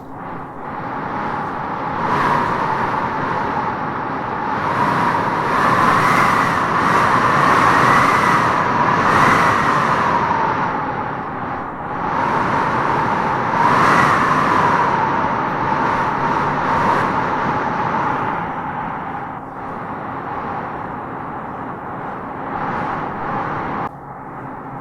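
Strong wind howling through trees in gusts, a whistling howl that rises and falls, swelling hardest about a quarter of the way in and again just past halfway, then easing off near the end.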